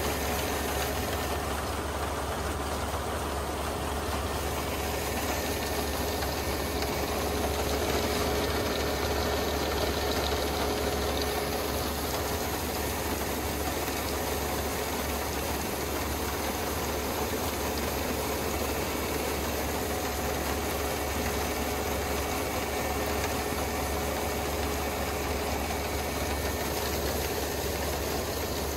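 Kubota ER470 combine harvester's diesel engine running steadily, an even unbroken drone with a faint steady hum.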